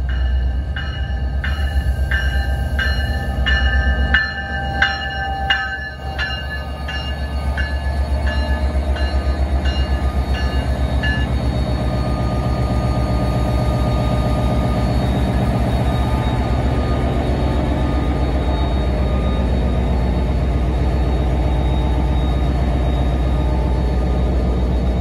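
NJ Transit diesel locomotive pulling into the station with its bell ringing at an even pace, about one and a half strokes a second. The bell fades out about ten seconds in, leaving the steady run of the engine and the wheels of the locomotive and cars rolling past close by.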